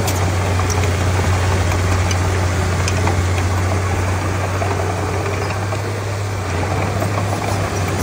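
Diesel engine of a Komatsu D31P crawler bulldozer running steadily, a strong, even low hum with no revving.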